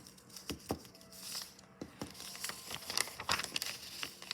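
A sheet of paper being handled and folded: scattered light rustles, crinkles and small taps, busier in the second half.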